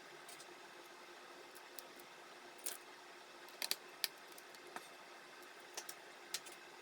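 Scattered sharp clicks and taps of small hard parts and tools being handled, about seven in the last half, some in quick pairs, over a steady faint hum and hiss.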